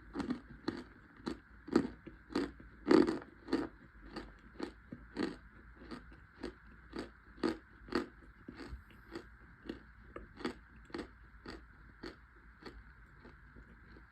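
A person chewing toasted cornstarch chunks and crumbles: crisp crunches about two a second, loudest in the first few seconds and thinning out near the end.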